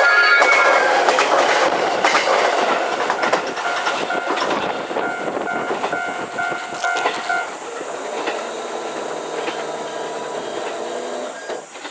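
JR West 223 series electric multiple unit passing over a level crossing, its wheels clattering over the rail joints, the sound fading as the train draws away. A level-crossing warning bell rings in short repeated tones about halfway through, then stops.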